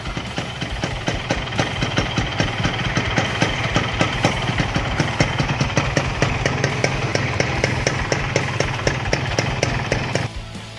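Yamaha RX-King's single-cylinder two-stroke engine idling through an aftermarket exhaust, a steady low run with fast, uneven popping from the pipe. The sound drops away near the end.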